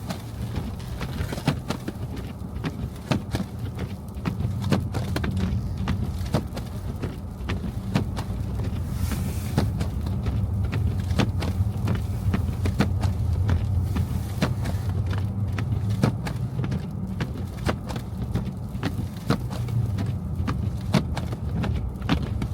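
Car driving through snow-covered city streets: a steady low rumble of engine and road, broken by many short, sharp clicks at irregular intervals.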